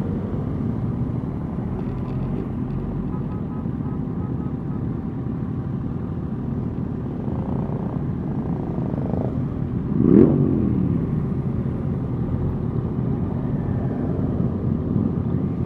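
Motorcycle engines running steadily during a group ride. About ten seconds in, one engine gives a sharp rev: its pitch climbs quickly, then falls away over about a second.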